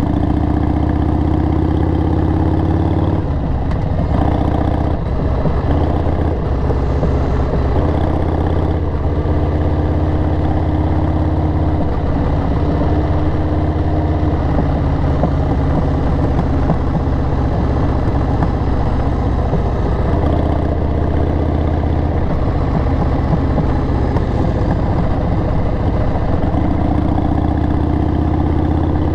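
Harley-Davidson XL883R Sportster's air-cooled V-twin running through Cobra 909 Speedster Short slip-on mufflers while riding. The engine note rises over the first few seconds, drops, holds steady for long stretches, and climbs again near the end.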